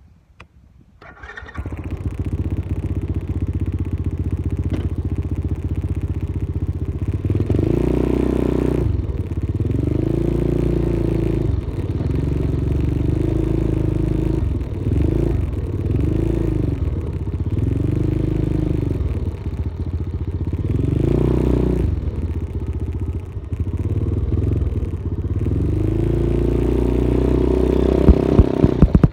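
Dirt bike engine starting about a second in and idling steadily, then revving up and dropping back again and again, its pitch rising and falling in repeated swells.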